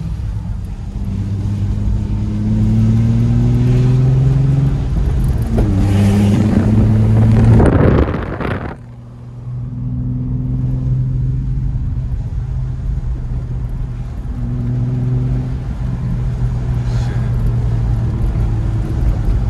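Nissan 350Z's 3.5-litre V6 breathing through a Tomei exhaust and Injen cold air intake, accelerating: the engine note climbs, drops at a gear change about five and a half seconds in and climbs again, with a loud rushing noise near eight seconds in. After that the engine runs steadier at a lower, even pitch.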